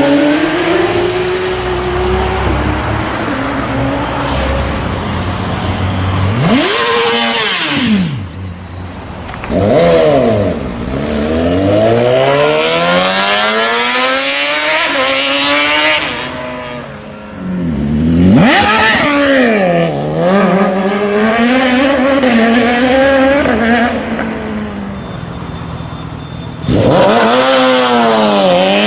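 Sport motorcycles accelerating hard past one after another, engines revving up with the pitch climbing and then dropping as each goes by. Several loud passes come about 7, 10, 18 and 27 seconds in.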